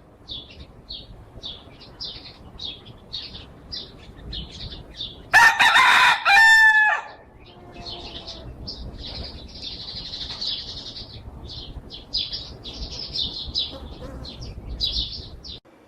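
A rooster crows once, loudly, for about a second and a half near the middle, over continual high-pitched chirping.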